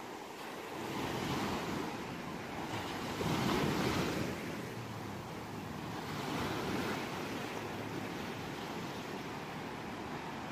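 Ocean waves washing onto a shore, surging and easing off in three swells, the loudest about four seconds in.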